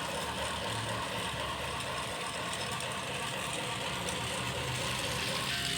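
Battery-powered toy train's small geared motor running, a steady whirring with fast, even clicking.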